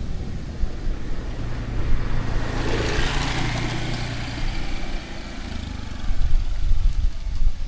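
A motor vehicle passing by: its engine hum and tyre hiss swell to a peak about three seconds in, then fade away by about five seconds.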